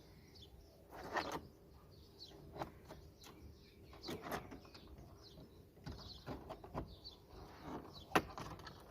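Irregular clicks and crackles of plastic being pried and peeled away from a car door panel, with the sharpest snap near the end.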